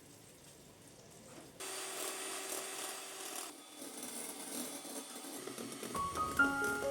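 A scraping, rubbing noise that starts suddenly about one and a half seconds in and goes on unevenly. Soft pitched music notes come in near the end.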